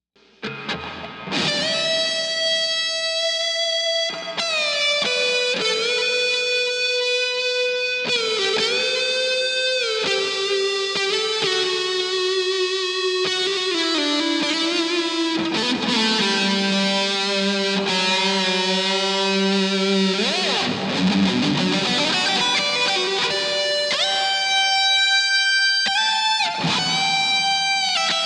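Electric guitar played through the Xvive MaxVerb reverb pedal: a slow lead line of long held notes with string bends and pitch glides, ringing on in the reverb.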